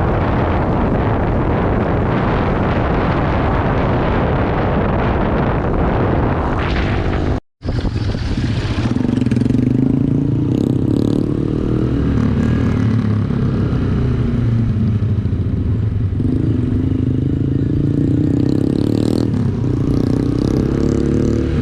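Wind rushing over the microphone of a moving motorcycle. After a short dropout about seven and a half seconds in, the single-cylinder engine of a Yamaha YBR125G is heard running, its pitch rising and falling as the bike changes speed.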